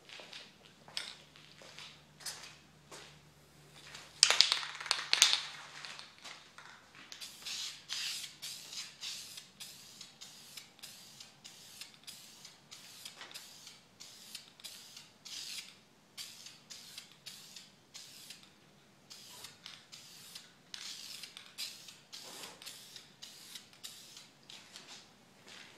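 Aerosol spray-paint can hissing in many short bursts as red paint is sprayed onto foam. A louder burst of clicks and hiss comes about four seconds in.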